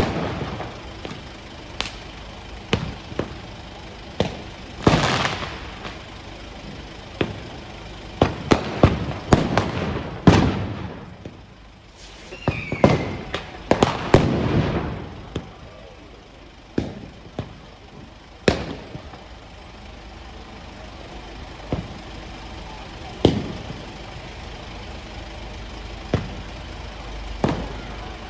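Fireworks exploding in a series of sharp bangs at irregular intervals, each with a short trailing echo. They come thickest in quick clusters through the middle and thin out to occasional single bangs near the end.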